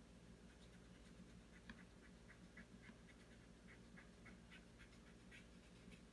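Near silence with a series of faint, short scratchy strokes of a pen or marker drawing on paper.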